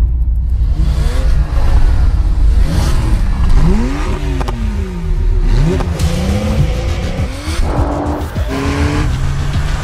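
Porsche engine through a sports exhaust system, revved up and down several times, its pitch climbing and falling in repeated sweeps, with a few held steps in pitch near the end.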